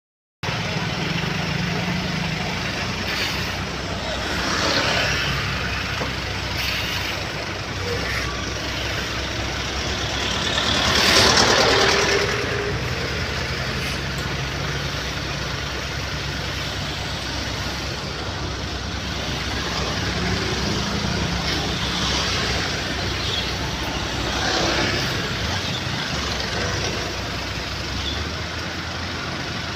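Heavy diesel truck engines running steadily, with several swells of hissing noise, the loudest about 11 seconds in.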